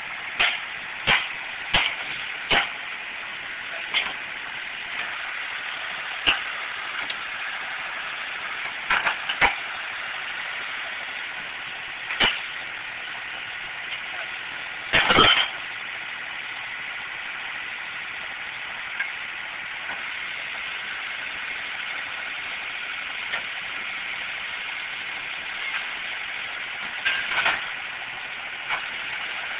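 John Deere tractor engine running steadily while it powers a well drill, with sharp knocks every few seconds: a quick run of them at the start, the loudest cluster about halfway through, and a pair near the end.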